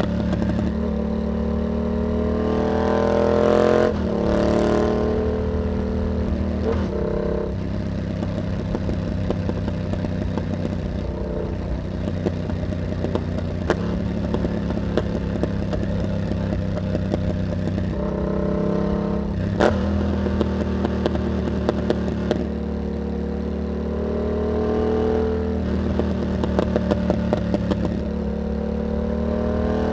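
Yamaha MT-07 parallel-twin engine through an aftermarket carbon hexagon exhaust with dB killer, under way and repeatedly accelerating and easing off. The revs climb and drop sharply at gear changes about 4 seconds and 20 seconds in. A few short, sharp pops stand out, the last of them near the end.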